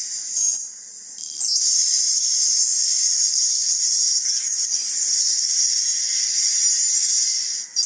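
Steady high-pitched electronic static hiss, with a brief dropout about a second in.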